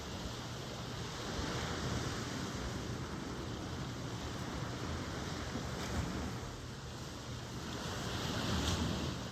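Ocean waves washing in as a steady surf noise, swelling twice, with some wind on the microphone.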